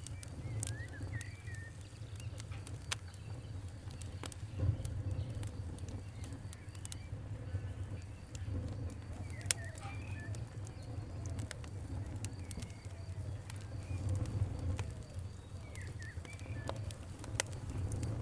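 Wood fire crackling, with sharp pops scattered irregularly over a steady low rumble. Birds chirp and coo faintly in the background.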